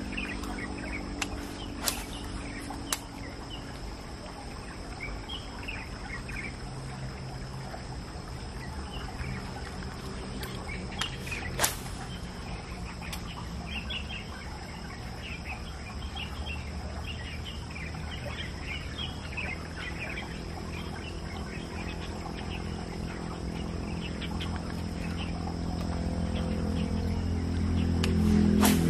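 Outdoor ambience of many birds chirping and calling, with a few sharp clicks now and then. A low hum grows louder near the end.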